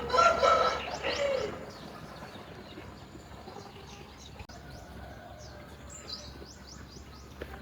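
Small birds chirping outdoors, many short quick chirps throughout, with a louder pitched call in the first second and a half.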